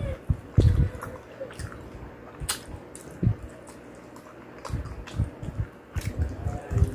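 Close-miked eating of fried chicken: wet chewing and squishy mouth noises, irregular, with a few sharp clicks.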